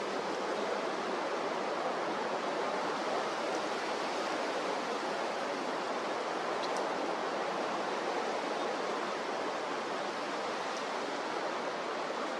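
Steady rushing noise of strong wind and sea surf, an even hiss without pauses or changes.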